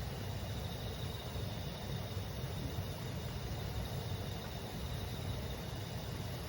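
River stream babbling steadily, with insects chirping over it in a continuous high trill.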